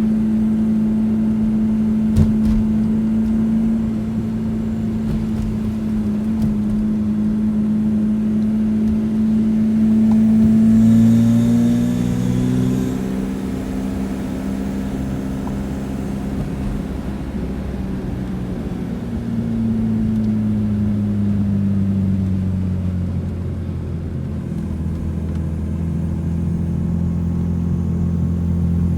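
BMW 850's 5.0-litre V12 running as the car drives along in limp mode. The engine note holds steady, changes pitch about eleven seconds in, then falls away around twenty seconds and settles into a deeper, steady rumble.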